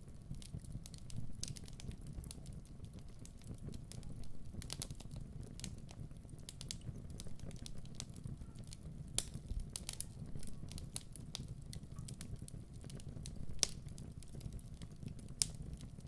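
Wood fire burning in a fireplace: a low steady rumble of flames with irregular crackles and sharp pops, a couple of them louder.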